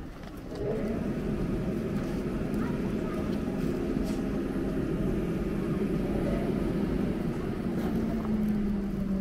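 Electric train running, a steady rumble with a motor hum that comes in about half a second in. One hum tone drops in pitch near the end.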